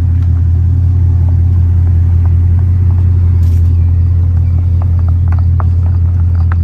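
Bugatti's W16 engine idling steadily as the car creeps along at walking pace, a deep, even rumble. A few light crunches come near the end as the tyres roll onto gravel.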